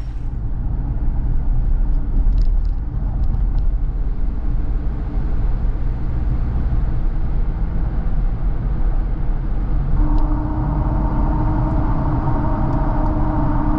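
Steady low rumble, like a vehicle in motion. About ten seconds in, a steady droning hum joins it.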